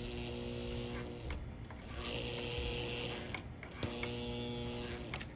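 Steady electrical hum, cutting out and coming back twice, from a Marx 898 toy steam locomotive under power that does not run: its motor is stalled by a seized gear. A hiss joins the hum for about a second in the middle.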